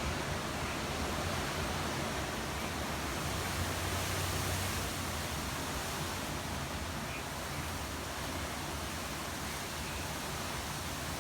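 Hurricane wind blowing hard and steady, a continuous rushing noise with a slight swell about four seconds in.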